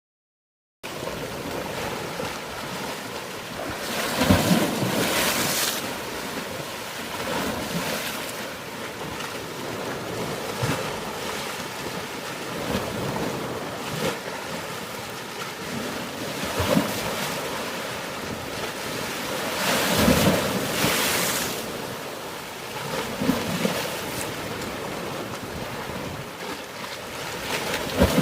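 Sea waves washing in, swelling about four seconds in and again around twenty seconds, with wind buffeting the microphone.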